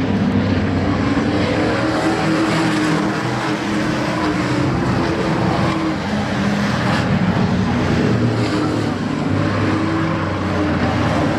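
The engines of a field of short-track race trucks running laps on an oval. The engine notes rise and fall as the trucks go through the turns and down the straights.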